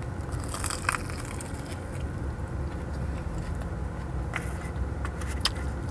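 Chewing with a few short crunchy clicks, over a steady low rumble inside a car.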